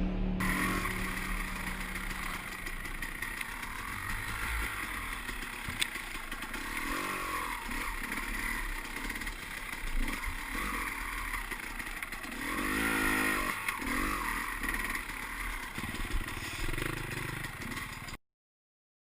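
Dirt bike engine revving, its pitch rising and falling several times, with some clatter. The sound cuts out abruptly near the end.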